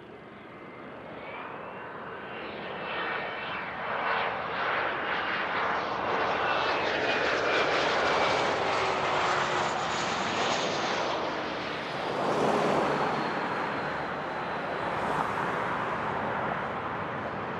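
Jet aircraft landing and passing close by: the engine noise builds to a peak, with a turbine whine that slowly falls in pitch as it goes past, then a second swell of noise about twelve seconds in.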